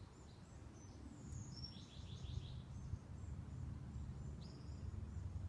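Faint birds calling over a low steady background rumble: a short chirp, then a quick run of notes about two seconds in, and another brief call near the end.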